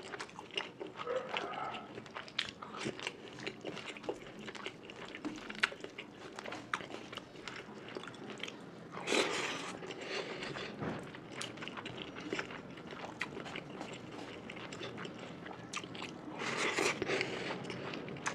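Close-up chewing and wet mouth sounds of a person eating fish curry with rice, a steady run of small clicks and smacks. Two louder, noisier bursts come about halfway through and near the end.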